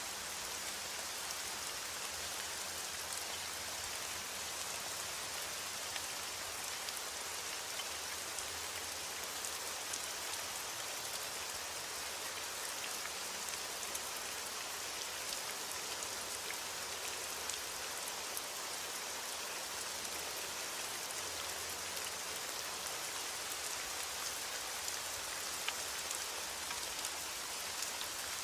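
Heavy rain falling on a window: a steady, even hiss with scattered light ticks of individual drops.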